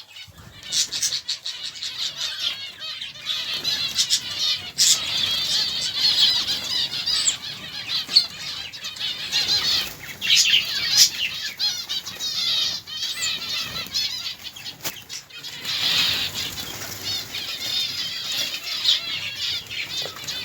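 Many small birds chirping busily together, with wings flapping and scattered sharp clicks among them.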